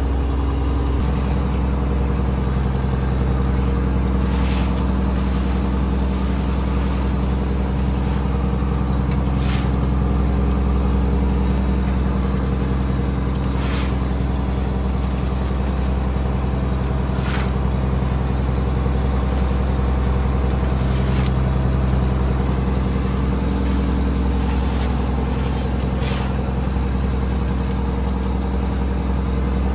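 Fishing trawler's diesel engine running steadily: a deep drone under a constant high whine, with a faint tick about every four seconds.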